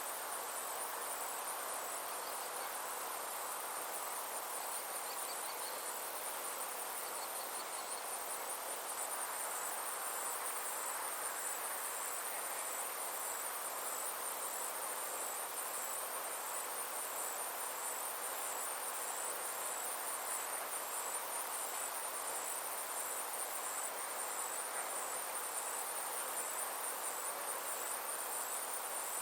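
Steady chorus of insects, a high pulsing trill that runs on without a break, over a soft even hiss of outdoor background noise.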